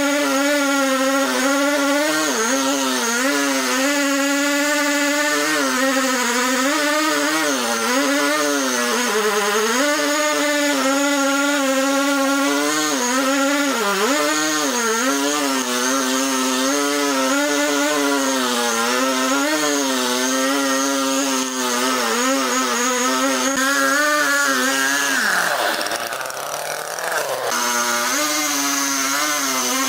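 Chainsaw engine running at high revs while cutting wood, its pitch rising and falling as the cut loads it. About 25 seconds in, the revs drop sharply, then pick back up.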